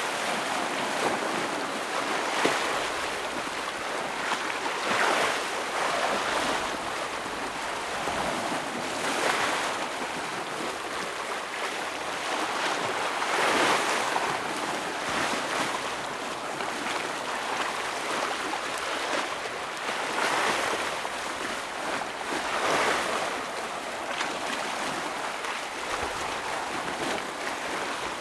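Ocean waves washing and breaking against shoreline rocks, a steady surf hiss that swells every few seconds as each wave comes in.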